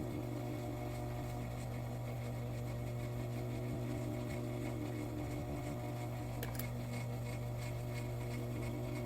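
Sewing machine running steadily through a seam: a constant motor hum with rapid needle strokes, and one short click about two-thirds of the way in.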